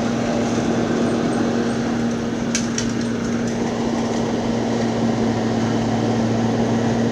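An engine running steadily at a constant speed, giving an even drone with a low hum.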